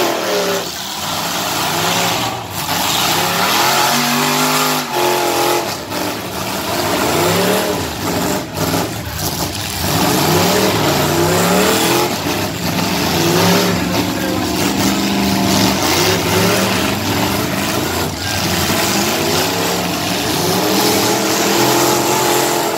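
Several car and truck engines revving hard together, their pitches rising and falling and overlapping, with a few short bangs.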